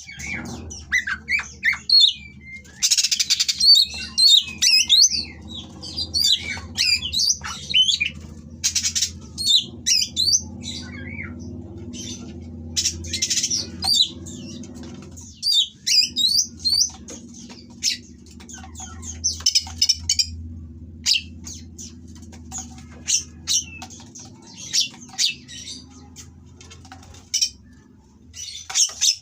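Oriental magpie-robin singing in rapid bursts of varied whistles, chatters and squawks. Under it runs a low steady hum that breaks off briefly about halfway through.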